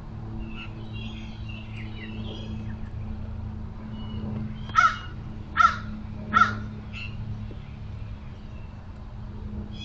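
A crow cawing three times in quick succession, evenly spaced about a second apart, with fainter high chirps of smaller birds before it and a steady low hum underneath.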